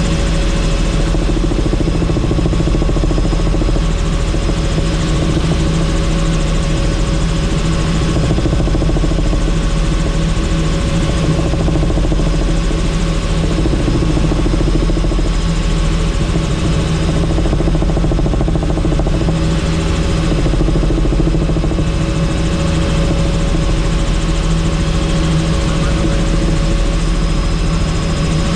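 Helicopter in flight with the doors off: the steady drone of the engine and rotor mixed with loud wind noise. It holds level, with no change in pitch.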